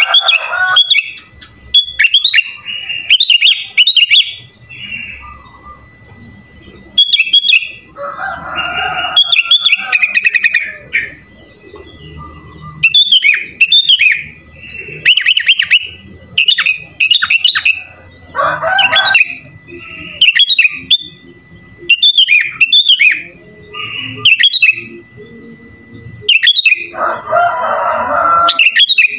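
Sooty-headed bulbul (kutilang) singing nonstop in short, bright, whistled phrases, a song loaded with mimicked notes of other songbirds. Louder, harsher raspy bursts break in three times, about 8, 18 and 27 seconds in.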